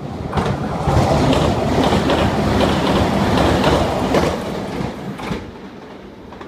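Meitetsu 3700-series electric train passing through a station at speed: a loud rumble of wheels on rail with sharp clacks over the rail joints, dying away about five seconds in.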